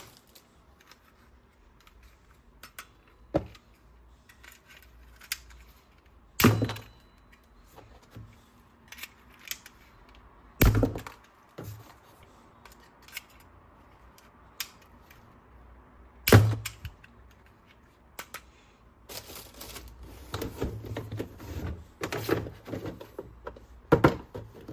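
Hands handling plastic toys and their packaging: scattered clicks and knocks, three louder thunks spread through the middle, then a stretch of plastic rustling and crinkling near the end.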